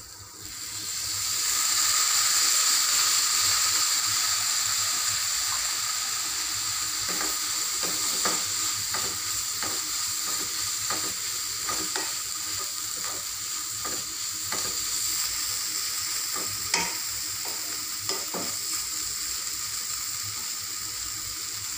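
Small dried fish and onions frying in oil in a non-stick kadai. About a second in, the sizzling surges as a sprinkle of water hits the hot pan, then eases to a steady sizzle. A wooden spatula stirs through the fish, with repeated light knocks against the pan from midway on.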